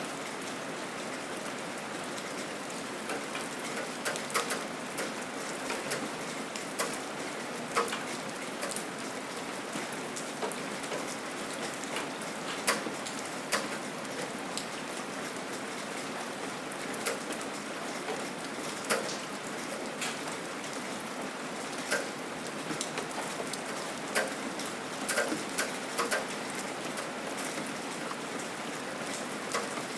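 Steady gentle rain falling, an even hiss with scattered close drops ticking sharply on a surface every second or so.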